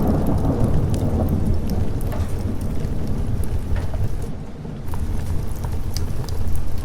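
Steady rain with a deep rumble of thunder rolling underneath, easing for a moment about four and a half seconds in before building again, with scattered sharp crackles on top.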